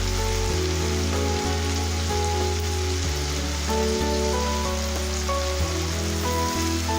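Ginger-garlic paste sizzling in hot oil, a steady hiss. Background music with held notes plays over it.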